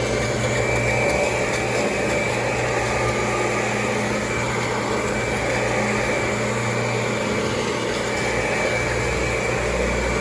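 Kirby G4 upright vacuum cleaner running steadily, with a thin high whine above its motor hum.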